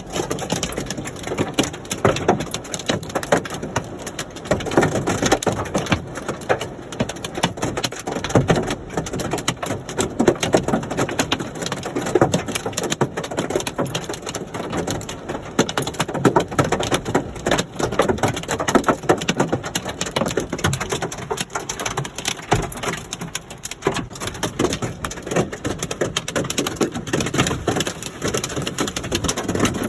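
Hail pelting down on a hard surface: a dense, continuous clatter of countless small impacts that swells and eases.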